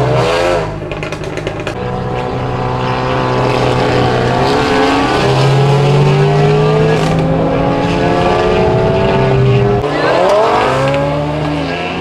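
Car engine accelerating hard through the gears, heard from inside a car's cabin: the pitch climbs in long pulls and drops sharply at gear changes about half a second in and near ten seconds, with crackling just after the shifts.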